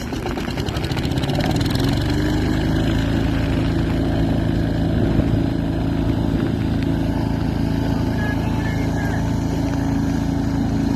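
Small diesel generator engine used as a canoe's inboard motor, picking up speed just after starting and then running at a steady speed.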